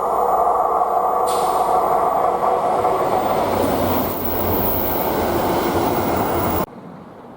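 A train passing close by on the main line: loud, steady rumble and rush of wheels on rail with a faint ring of tones from the wheels, cut off suddenly near the end.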